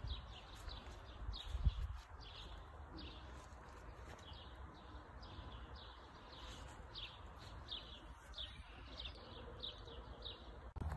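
A small songbird chirping over and over: short, high notes that drop in pitch, about two a second. Under it is a low rumble on the microphone, with a single thump just under two seconds in.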